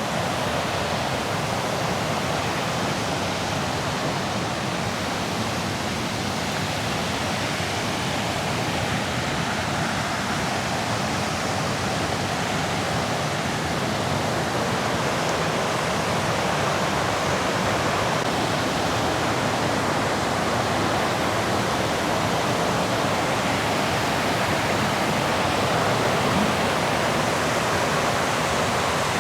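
River waterfall rushing steadily, a continuous roar of falling water.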